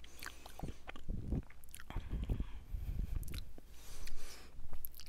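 A person chewing and biting into mochi: soft mouth sounds with irregular short clicks.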